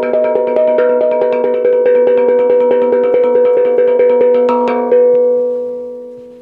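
Tuned percussion played by hand in a quick, even rhythm of several strokes a second on a few ringing pitches, ending about five seconds in with one last struck note that rings on and fades out.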